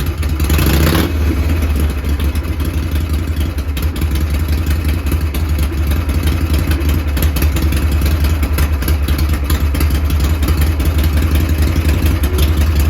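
Harley-Davidson Shovelhead V-twin engine running at a steady idle, with a short burst of noise about half a second in.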